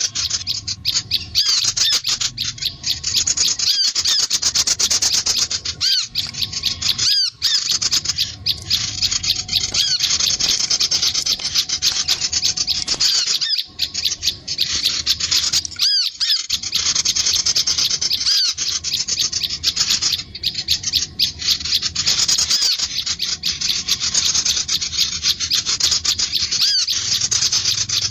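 Small songbirds calling: rapid, continuous high-pitched chirping made of many short rising-and-falling notes, briefly broken a few times.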